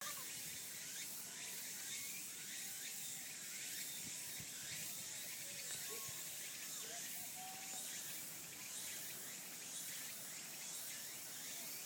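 Woodland ambience: a steady, high-pitched hum of insects, with a few faint bird calls near the start and in the middle.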